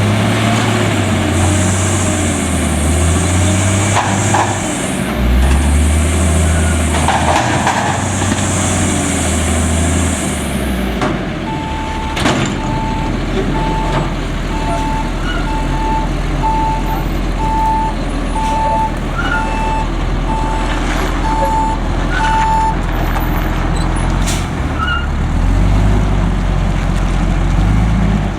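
Autocar front-load garbage truck's engine revving up and down with a long hiss of air, then settling to a steady run while the reversing alarm beeps about once a second for around ten seconds. The engine revs again near the end.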